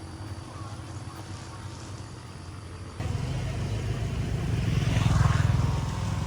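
A motor vehicle engine running with a low pulsing rumble; it jumps louder about three seconds in and swells to its loudest around five seconds in.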